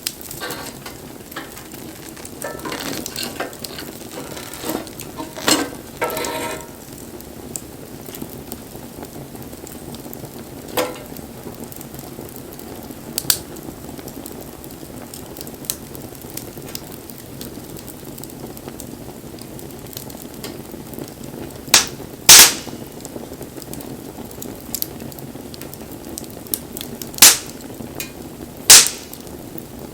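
Wood fire crackling steadily, with sharp pops every few seconds; the loudest are a pair about two-thirds of the way through and two more near the end.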